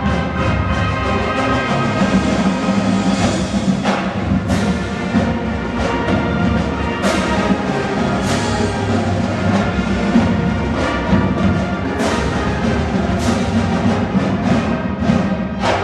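High school marching band playing: brass holding full chords over drums and timpani, with strong percussion hits every few seconds.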